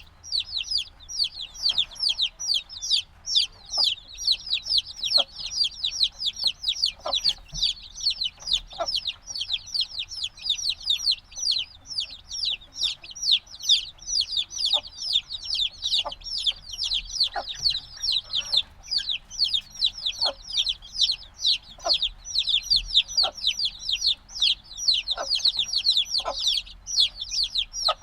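A brood of chicks a few days old peeping without pause: many short, high, downward-sliding chirps overlapping, several a second, with scattered soft taps beneath them.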